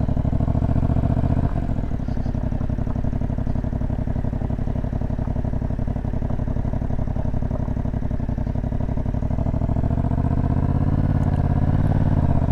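Motorcycle engine running under way, heard from the rider's seat. The level drops slightly after a click about a second and a half in, and the engine pitch rises again near the end.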